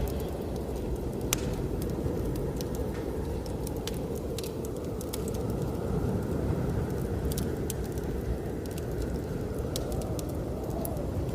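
Wood fire crackling, with irregular sharp pops and snaps, over the steady low rush of blizzard wind.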